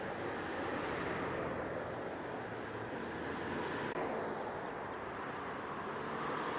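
Steady rushing road noise of vehicles passing, swelling twice, with a faint click about four seconds in.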